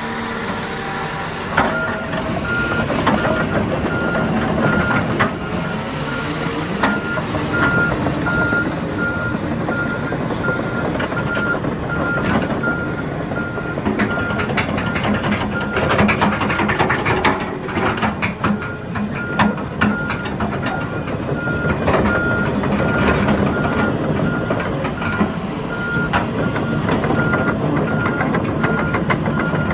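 John Deere 210G crawler excavator running, its travel alarm sounding a steady series of evenly spaced beeps from about a second and a half in, over the diesel engine and hydraulics, with scattered metal clanks.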